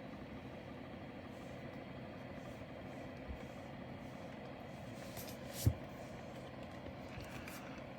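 Steady low background hum, with a faint knock about three seconds in and a sharper single knock a little before six seconds, like an object being set down.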